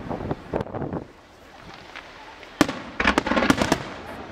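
Aerial firework shells bursting in a display, with a volley of sharp cracks at the start. After a short lull comes a single bang about two and a half seconds in, then a rapid flurry of crackling reports.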